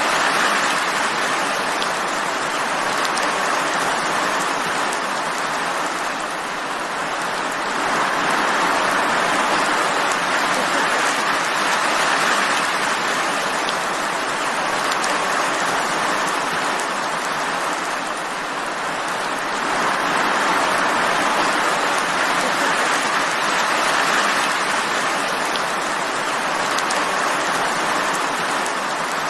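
Steady heavy rain, a dense hiss of drops strongest in the middle range, swelling and easing gently every several seconds.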